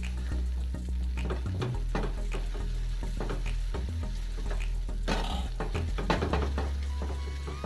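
Spatula repeatedly scraping and knocking against a nonstick frying pan while stirring thick wheat-flour halwa that sizzles in ghee, a rush of scraping about five seconds in. This is the bhunai stage, roasting the halwa until it releases its ghee. Background music with a low bass line underneath.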